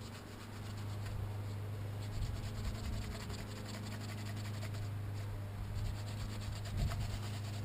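Faint scratching and light clicking of hand work with tools and metal parts, irregular and busier in the second half, over a steady low hum.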